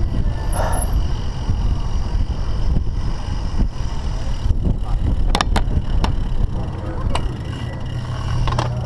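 Heavy wind rumble buffeting the camera microphone, with a few sharp clicks and rattles about five and seven seconds in.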